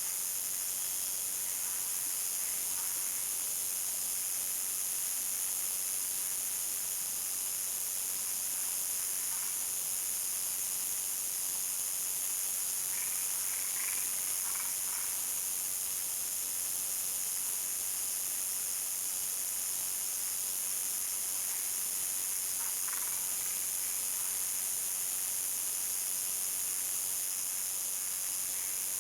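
Countryside dusk chorus: crickets trilling in a steady high-pitched drone, with a few short frog calls every several seconds, a small cluster about halfway through.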